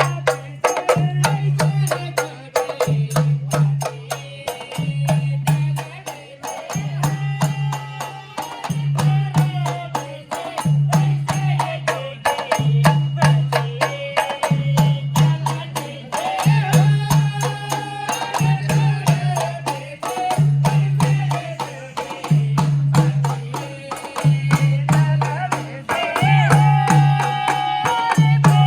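Tharu folk dance music: a voice singing a bending melody over a low drum pulse about once a second, with fast, steady clicking percussion.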